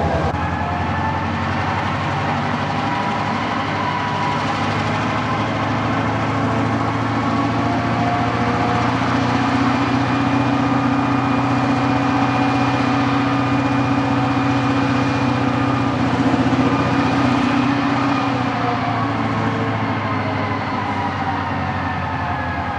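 EMD GP38-2 diesel locomotive's Roots-blown 16-cylinder 645 engine running flat out in run 8 (full throttle), a steady, loud, screaming drone. The engine is labouring as the single unit struggles to shove a heavy cut of cars around a curve and up a grade.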